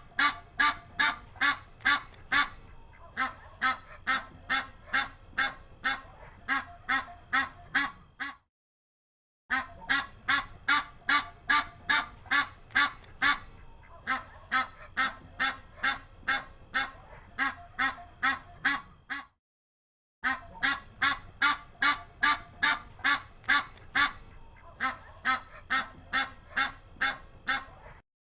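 Domestic geese honking in a rapid series of calls, about two to three a second. The same recording plays three times with short silent gaps between.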